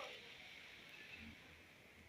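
Near silence: a faint hiss fading away.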